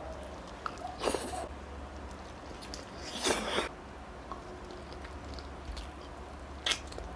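Close-miked biting and chewing of grilled chicken inasal, with short wet mouth noises and louder bites about a second in, around three seconds in and near the end.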